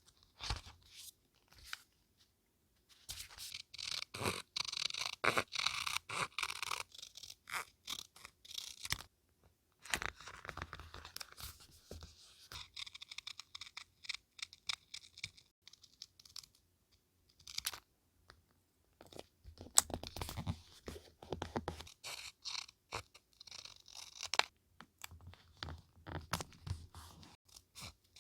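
Paper and stationery being handled close to the microphone: bursts of rustling, scraping and small clicks, with short pauses between.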